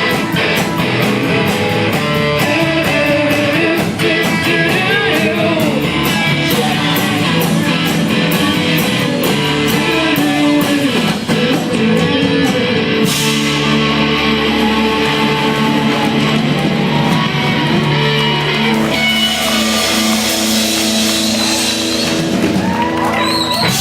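Rock band playing live: electric guitars over a fast, steady drum beat, then long held chords with cymbals washing over them in the last few seconds as the song closes.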